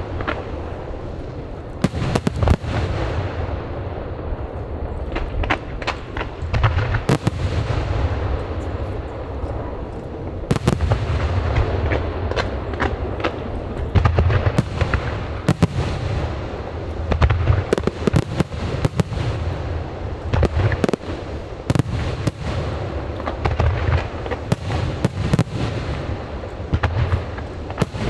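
Aerial fireworks display: a rapid, irregular barrage of shell bursts and bangs over a continuous low rumble, with crackling between the reports.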